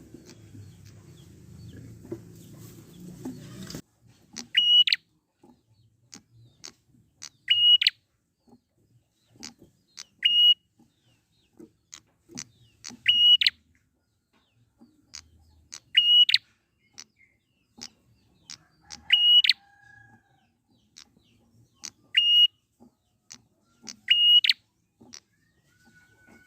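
A prenjak (prinia) calling, giving a loud, sharp call about every three seconds, eight times, with quieter short ticking notes between the calls. For the first four seconds a steady rushing background noise runs, then cuts off suddenly.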